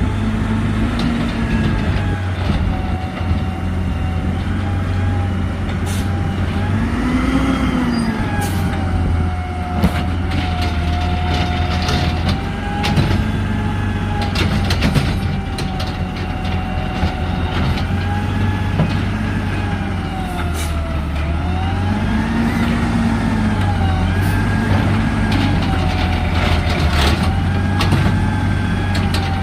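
Garbage truck running, its engine drone steady underneath while a whine rises and falls in pitch several times as the engine revs up and down. Scattered sharp clanks and knocks come through over the top.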